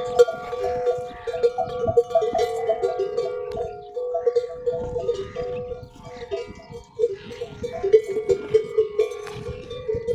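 Metal bells on camels clanking and ringing over and over as the animals move their heads, with many sharp knocks over a steady ring.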